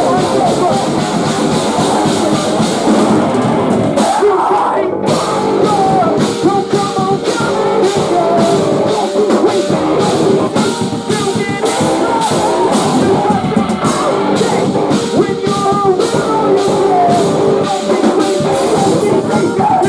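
Post-hardcore band playing live: distorted electric guitars, drum kit and vocals, loud and dense throughout.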